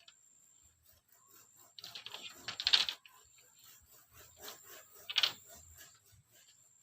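Irregular light clicking and tapping, with two louder sharp knocks about two and a half seconds apart.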